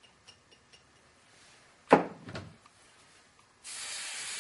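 A single sharp knock about two seconds in, then near the end an aerosol can of hairspray spraying in a steady hiss.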